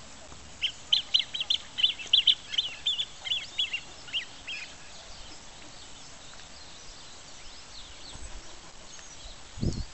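Waterbirds calling: a quick run of short, high calls over about four seconds, then a quiet outdoor hush. A low thump comes at the very end.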